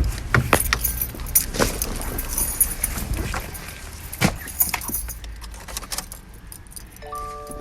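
Keys jangling, with scattered clicks and knocks from handling them. Near the end the car's repeating electronic warning chime begins, just ahead of the engine being started.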